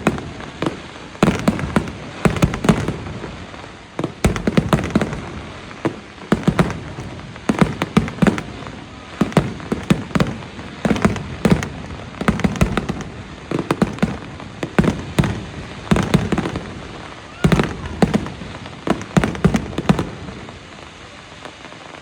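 Aerial fireworks shells bursting in a rapid, continuous barrage: many sharp booms and cracks close together, easing off near the end.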